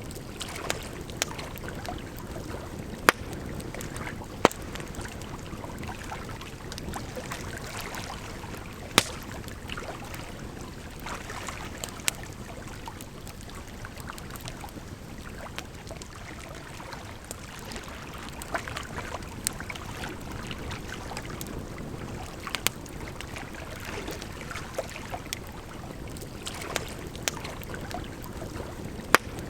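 Campfire crackling, with sharp pops every few seconds, over the steady rush of flowing water.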